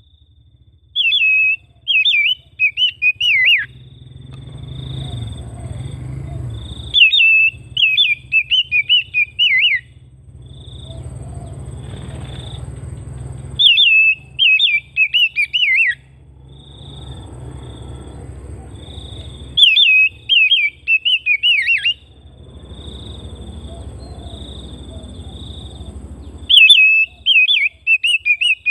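Oriental magpie-robin (kacer) singing: a phrase of rapid, loud whistled notes, repeated five times about six seconds apart. A low hiss swells in the gaps between phrases.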